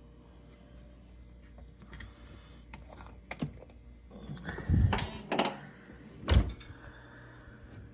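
Dishwasher being handled: a few light clicks, then a stretch of clattering and a loud single thunk about six seconds in.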